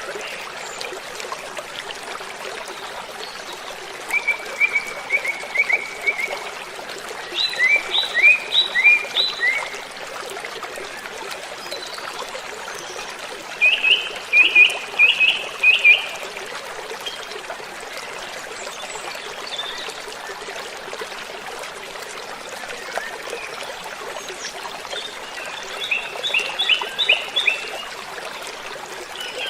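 Waterfall rushing steadily, with a songbird singing four short phrases of quickly repeated high notes over it.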